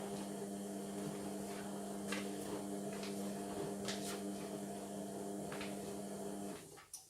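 Indesit washing machine running with a steady electric hum that cuts off abruptly about six and a half seconds in, with a few light clicks along the way.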